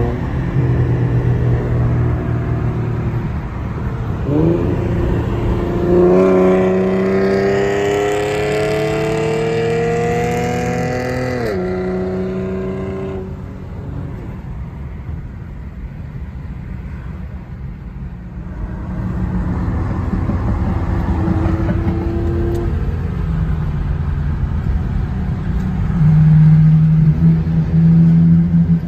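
Car engines running. Around the middle one car accelerates, its engine note climbing steadily for about five seconds before it drops away, and near the end another engine gets louder.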